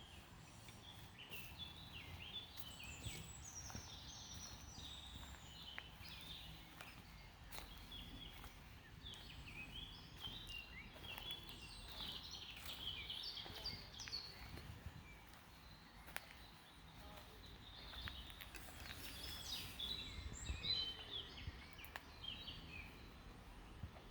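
Faint birdsong: a continuous run of short chirping and warbling notes over a low outdoor rumble, with a few soft clicks.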